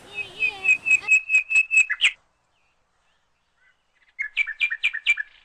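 A bird chirping in quick, even series of high notes, about five a second: one run of about two seconds, a pause, then a second run near the end.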